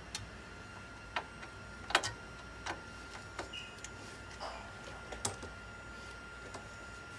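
Irregular sharp clicks and taps of hands working on a desktop PC, about ten over a few seconds, over a faint steady high tone.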